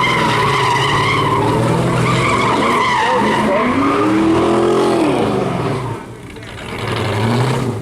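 Car engine revving up and down while its tyres squeal and skid, as in a burnout or donut. The squeal fades about five seconds in, and the engine revs up again near the end.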